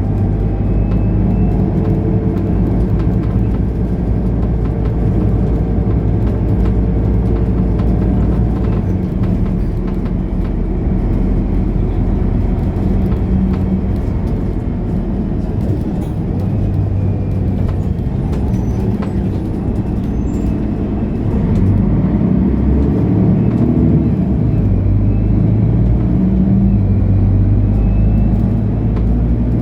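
Mercedes-Benz O530 Citaro Facelift Ü bus's diesel engine running as the bus drives, heard from inside the bus. The engine note shifts up and down several times with engine speed and gets a little louder about two-thirds of the way in.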